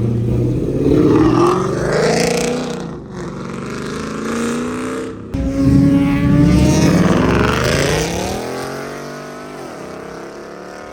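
A car engine revving hard as the car accelerates past, pulling up in pitch twice with a sudden jump in loudness between the pulls, then falling in pitch and fading as it drives away.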